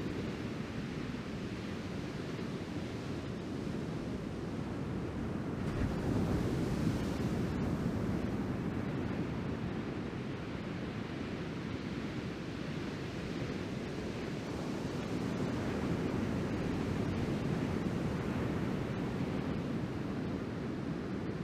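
Ocean surf from a typhoon swell: waves breaking and washing ashore in a steady rushing roar, swelling louder about six seconds in and again later, with wind buffeting the microphone.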